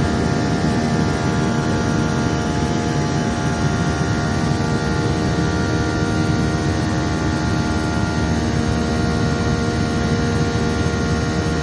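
Steady drone of a jet airliner's engines heard inside the cabin as the plane climbs after takeoff: an even rushing noise with several steady tones that hold unchanged throughout.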